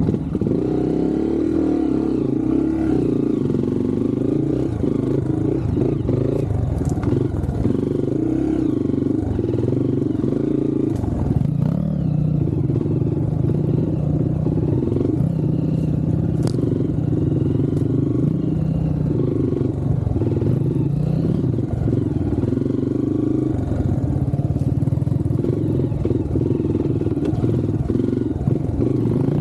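Trail motorcycle engine running under way, its pitch rising and falling with the throttle, with a few sharp knocks and clatter from the bike over rough ground.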